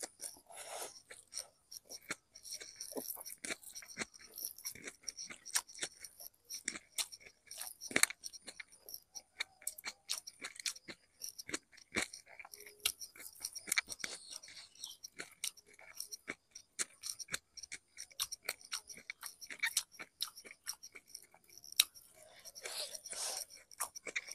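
A person eating by hand close to the microphone: chewing and crunching food, with many short sharp clicks at an uneven pace.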